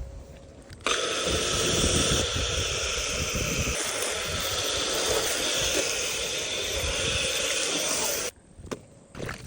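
Hose sprayer switched to its soap setting, spraying soapy foam onto a car as a steady hiss. It starts suddenly about a second in and cuts off near the end.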